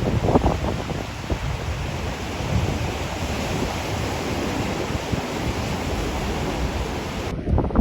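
Pacific Ocean surf washing on a beach, a steady hiss, with wind buffeting the microphone in low gusty rumbles. The surf hiss drops away abruptly near the end.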